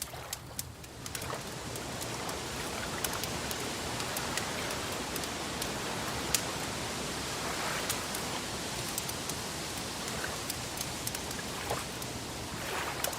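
Wood fire crackling: a steady hiss with frequent scattered sharp pops and snaps.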